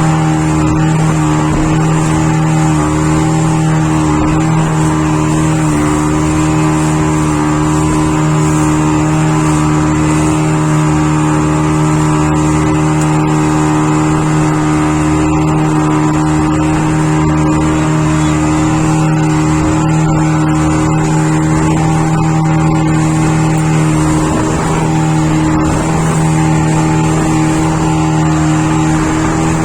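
Motorboat engine running steadily at a nearly constant pitch, loud and close, with a slight wavering in pitch now and then.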